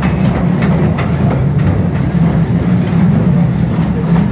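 Open-car cave train running on narrow-gauge track: a steady low rumble from the cars, with rail clicks in the first couple of seconds.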